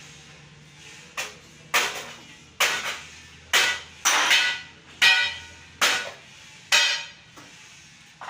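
Metal being struck with a hand tool, eight sharp ringing clanks at an uneven pace, each dying away quickly, over a faint steady hum.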